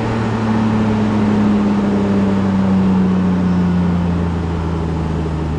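Nissan Maxima's 3.5-litre V6, freshly built and being broken in, running steadily with its pitch slowly falling, easing off rather than pulling hard.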